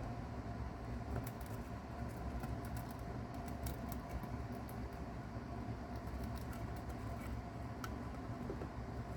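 Mouse chewing a cicada: faint scattered crackles and tiny clicks over a steady low hum, thickest in the first few seconds.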